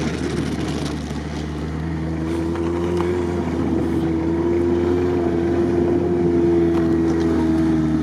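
Off-road 4x4 engine running, its pitch rising about two seconds in and then holding steady and louder.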